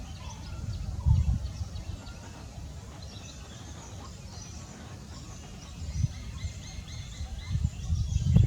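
Outdoor ambience of several small birds chirping and calling in short high notes, with a run of repeated notes in the middle. Low rumbles hit the camera's microphone about a second in and again near the end.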